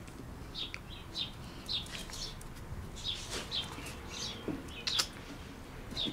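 Small birds chirping faintly in short high notes, roughly two a second, with two sharp clicks near the end.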